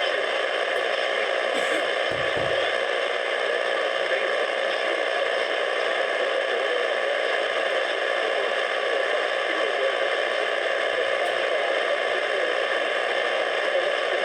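Radio static: a steady, even hiss with no voice coming through.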